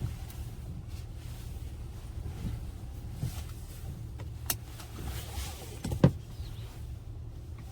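Low, steady rumble inside the cab of a 2021 Honda Ridgeline, with a few light clicks and one sharp thump about six seconds in.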